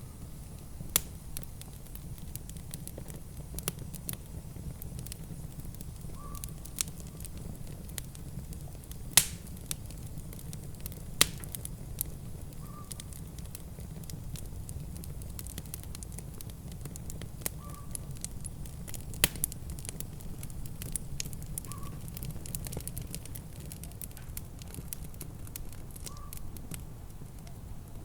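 Wood fire in a fireplace crackling, with scattered sharp pops, over a steady low rumble.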